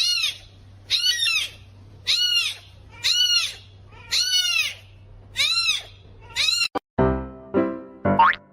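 An animal's short, high calls, repeated about once a second, each rising and then falling in pitch. Near the end it gives way to plucked music with a quick rising boing.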